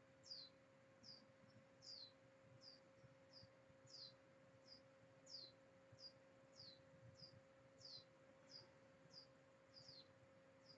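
Faint, high chirping repeated about one and a half times a second, alternating a short flat note with a falling one, over a steady low electrical hum.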